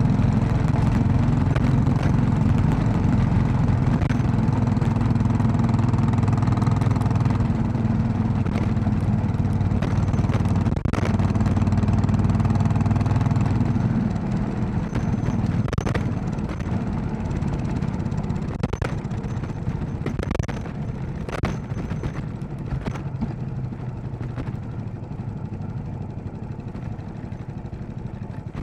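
Royal Enfield Classic 500's single-cylinder engine running steadily under throttle, then easing off about halfway through as the sound drops and softens. Scattered sharp knocks and rattles follow as the bike rolls on.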